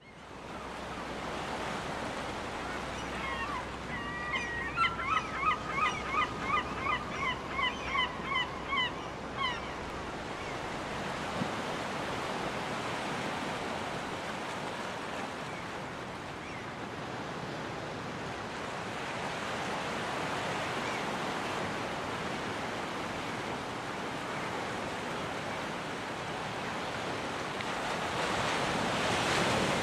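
Ocean surf washing steadily on a beach, swelling louder near the end. A few seconds in, a gull gives a rapid series of about a dozen loud calls lasting some five seconds.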